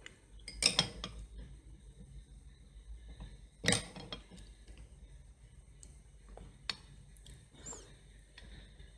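Cutlery clinking against a dish during a meal of macaroni and cheese: two sharp clinks about three seconds apart, the first about a second in, and a few fainter taps after them.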